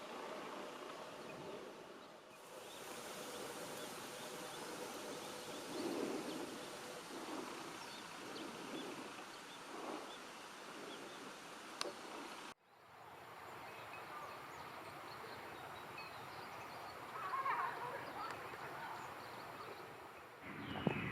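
Outdoor ambient background noise with scattered faint short sounds. It breaks off abruptly about twelve seconds in and resumes with a slightly different background.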